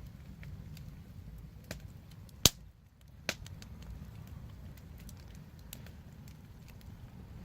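Wood fire burning with a low rumble and scattered small crackles, and one loud sharp pop about two and a half seconds in, followed by a smaller pop just under a second later.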